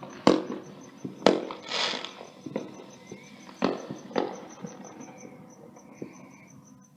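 Fireworks going off: about five sharp bangs over the first four seconds or so, the loudest near the start, with a brief crackling hiss after the second.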